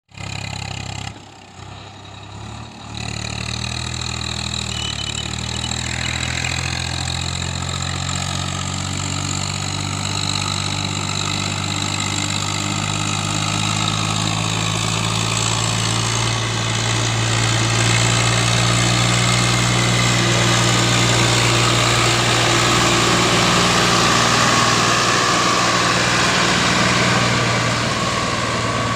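Diesel tractor engine running hard under full load on an uphill climb: a steady low drone that dips briefly about a second in and grows louder about halfway through.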